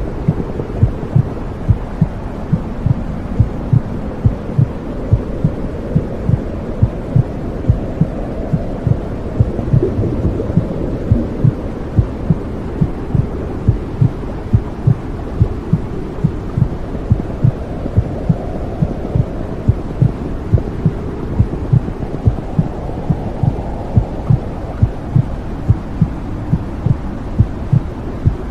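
Womb sound for soothing a baby: a steady low whooshing hum, like blood flow, with a mother's heartbeat thumping regularly about twice a second.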